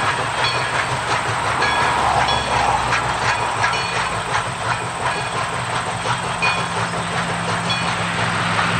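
East Broad Top narrow-gauge diesel train rolling along the track: wheels click over the rail joints about twice a second, with a steady low engine hum beneath.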